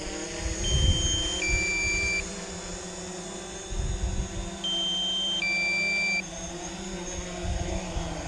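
Quadcopter drone hovering close by, its propellers humming steadily, with wind gusting on the microphone. The hum cuts off near the end as the motors stop on landing. A two-tone electronic alert, a higher tone then a lower one, sounds twice.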